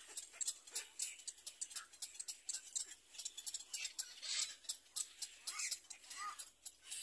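Dense, irregular high clicking and ticking, with a few faint short bird chirps about five and a half and six and a half seconds in.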